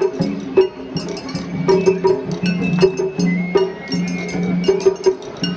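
Traditional Japanese festival music: a quick run of percussion strikes with a metallic clink among them, under a high held melody line that bends in pitch about three seconds in.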